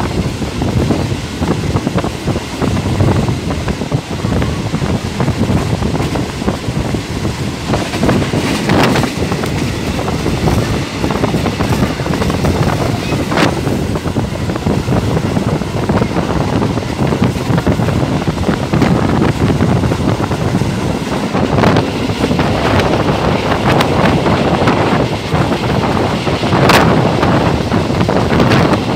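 A Thai passenger train running at speed, heard from an open carriage window: a steady rumble of the train on the track and wind rushing over the microphone, with a few sharp clicks.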